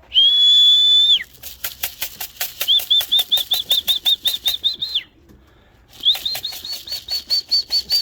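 Person whistling to call racing pigeons down to the loft: one long, steady whistle, then two runs of short repeated whistle notes, about four a second, over a fast, rhythmic clatter.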